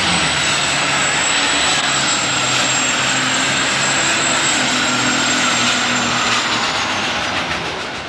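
Turbocharged super stock diesel pulling tractor at full power on its pass down the track, the engine running hard with a high, steady turbo whine over it. It starts to fade away about six and a half seconds in.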